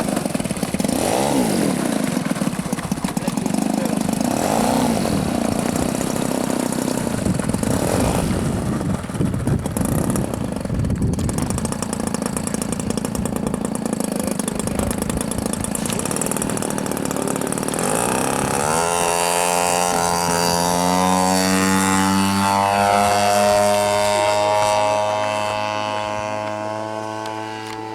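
MVVS 45 two-stroke model engine on a Hurricane RC airplane, running with its throttle opened and closed in repeated swells. About 18 seconds in it revs up into a steady high-pitched full-throttle run, which grows fainter near the end.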